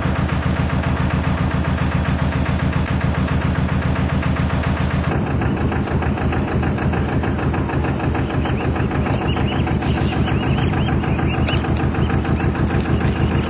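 Narrowboat's diesel engine running with a steady, rapid chugging pulse, heard close; its tone shifts about five seconds in.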